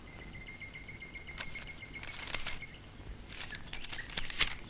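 Small birds chirping in scattered quick flurries of short high chirps, with a faint thin steady high tone under the first half.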